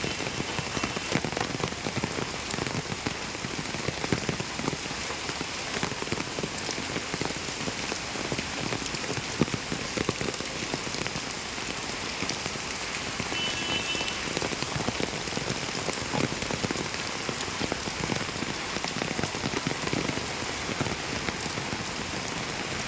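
Heavy rain falling steadily, a dense hiss with the patter of countless drops hitting surfaces.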